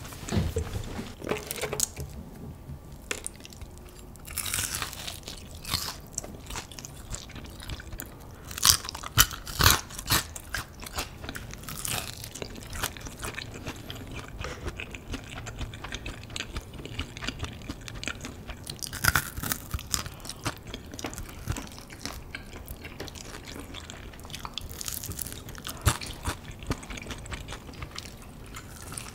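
Close-up chewing and biting of crispy fried chicken: the coating crunches with each bite, with a cluster of louder crunches about nine to ten seconds in and single sharp ones later.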